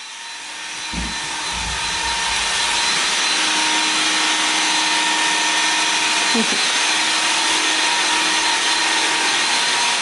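Electric blender running to mix milkshakes: a loud, steady motor whine over a whirring rush, building to full speed over the first couple of seconds. It is switched off at the very end and its pitch begins to fall as it spins down.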